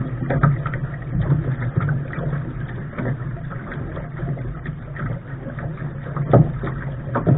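A Lark sailing dinghy under way: water and wind noise with a steady low rumble, broken by a few sharp slaps, the loudest a little over six seconds in.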